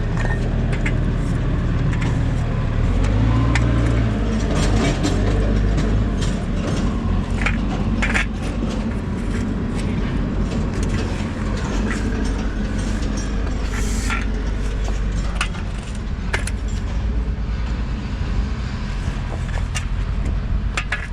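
An engine running steadily with a low rumble, with scattered metallic clinks and rattles over it.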